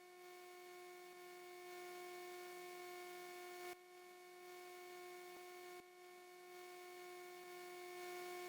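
Faint, steady electrical hum with evenly spaced overtones on the cockpit intercom audio feed; otherwise near silence.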